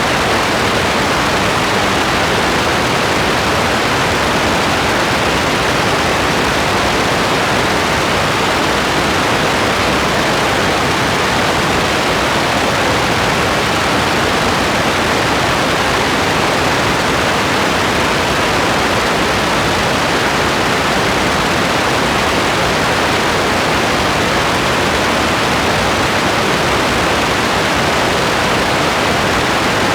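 Steady rain falling as an even, unchanging hiss, with no separate drops or thunder standing out.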